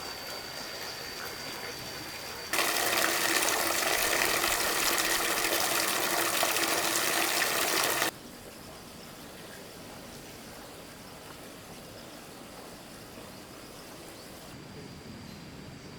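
Water gushing. A loud rush cuts in about two and a half seconds in and cuts off abruptly about three seconds before the halfway point, between quieter stretches of steady flowing noise.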